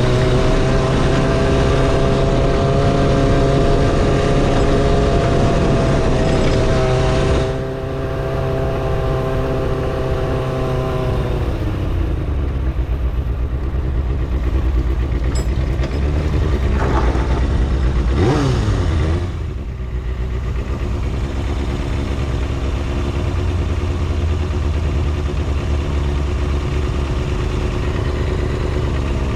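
Kawasaki ZXR250 inline-four engine running at a steady speed, falling away to a lower note about a third of the way in. It gives a brief rev up and back down about two-thirds in, then settles to a steady idle.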